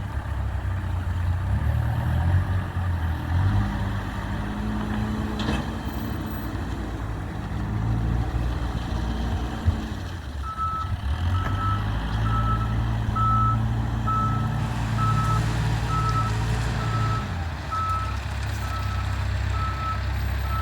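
Diesel engine of a track crew's work vehicle running and changing speed, with its backup alarm beeping steadily, a little over once a second, from about halfway in as it reverses.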